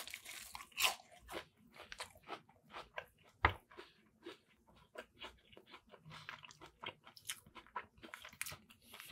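Crunchy chewing of crispy deep-fried battered fish: a bite at the start, then a string of irregular crunches as it is chewed, with one sharper crunch about three and a half seconds in.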